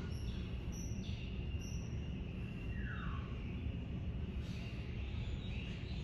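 Small birds calling: a few short high chirps, then a clear falling whistle about three seconds in, over a steady low rumble.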